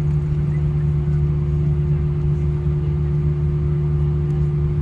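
Steady low drone and hum inside the cabin of an Airbus A320 rolling onto its stand after landing, with one steady tone above the hum and no change in level.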